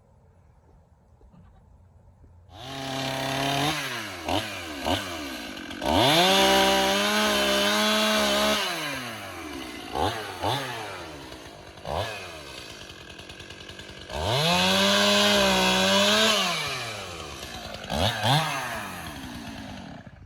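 Small gasoline engine starting up about two and a half seconds in. It revs up twice to a steady high pitch for a couple of seconds each time, dropping back to a lower idle in between, with a few sharp pops.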